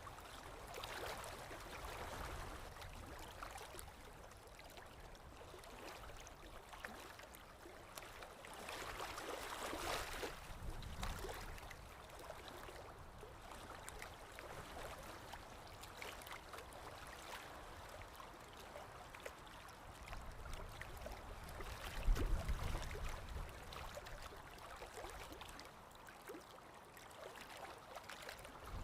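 Paintbrush working acrylic paint on canvas: soft, scratchy scrubbing strokes that swell and fade, with a single dull thump about 22 seconds in.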